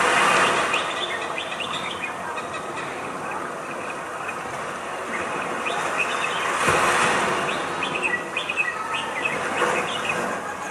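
Birds chirping in short, repeated tweets over a steady rushing hiss that swells near the start and again about seven seconds in.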